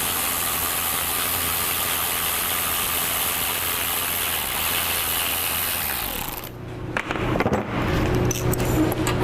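A power tool running steadily on the canister's bolts for about six seconds, then stopping, followed by scattered metallic clicks.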